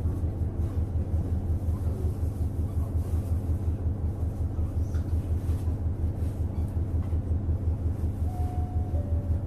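Inside a KiHa 150 diesel railcar: a steady low engine rumble with an even, fast pulse. Near the end a two-note falling chime sounds.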